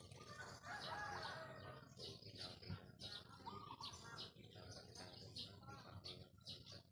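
Faint bird calls: short, high chirps over and over, with a few lower, fuller calls in between.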